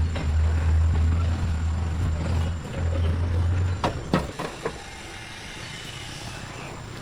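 An engine running with a steady low hum that cuts off about four seconds in, followed by a few sharp metallic knocks.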